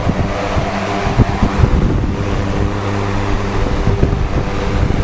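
Five-bladed box fan running on its second of three speeds: a loud, steady rush of air with a low hum, likened to a Bell Jet Ranger helicopter. Its airflow buffets the microphone.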